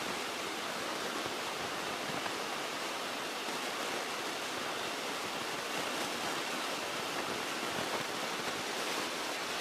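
Steady rushing hiss in the cockpit of a Beechcraft Musketeer light airplane at full power during a short-field takeoff roll, with no distinct engine tone.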